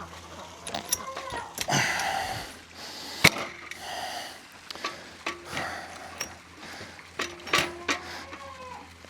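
Metal clinks and knocks, with one loud sharp clank about three seconds in, and scraping between them: a trailer tailgate being worked loose by hand.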